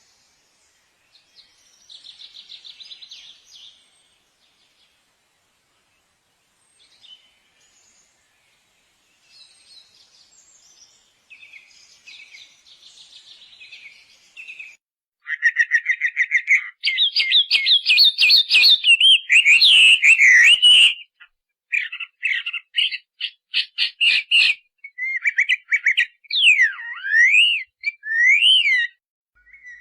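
Songbirds singing: faint chirps and buzzy trills in the first half, then loud rapid trills, quick repeated notes and rising and falling whistles from about halfway on.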